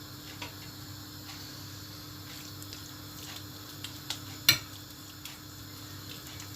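A utensil clicking and scraping in a dish as ragù is spread over lasagna sheets: a few faint clicks, then one sharp clink about four and a half seconds in, over a steady low hum.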